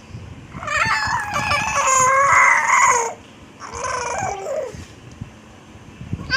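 A baby making a funny high-pitched vocal noise: one long drawn-out call of about two and a half seconds, then a shorter one a second later.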